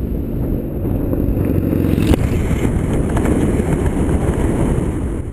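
Motorcycle engine running steadily while riding, mixed with rushing noise on the microphone; it cuts off abruptly at the end.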